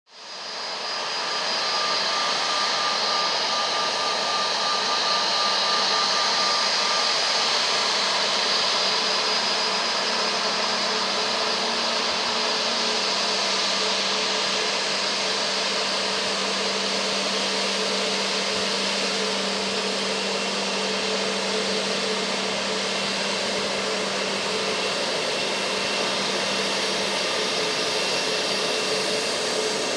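Airbus A320neo's CFM LEAP-1A turbofan engines running steadily: a loud, even rush of noise with high steady whining tones over it.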